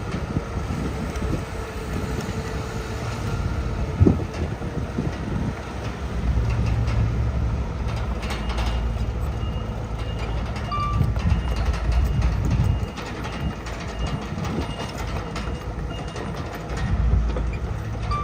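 Heavy diesel earthmoving machinery working, the engine rumble swelling and easing, with metallic clatter, a sharp knock about four seconds in, and a few short high beeps.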